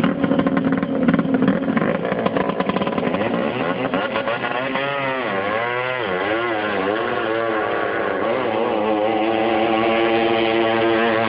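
Drag racing boat's engine running loud and revving, its pitch swinging up and down about halfway through, then settling into a steady, slowly rising note.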